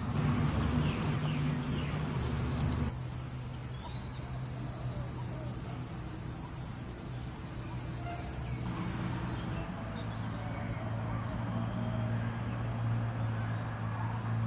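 Insects chirping in a dense, shrill chorus, over a low steady hum. About two-thirds of the way through the chorus switches abruptly to a regular, rapidly pulsing chirp.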